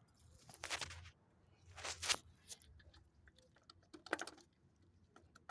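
Plastic clicks and short scraping rattles, three brief bursts with small ticks between them, as the ignition coil pack's connector and parts are worked loose by hand.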